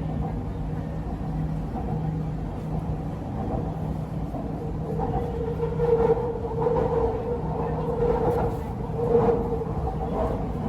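Inside an MRT Purple Line electric train car running on the elevated line: a steady low rumble and hum. From about halfway through, a steady tone from the drive comes in, with a few louder swells.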